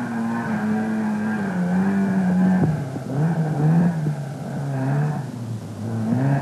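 Rally car's engine revving hard with the car off the road in a field. The note is held high, then drops in steps and wavers.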